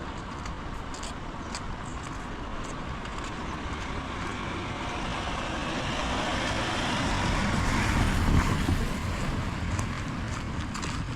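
A car passing on a wet road, its tyre hiss swelling to a peak about eight seconds in and then fading, over steady rain and footsteps on wet pavement.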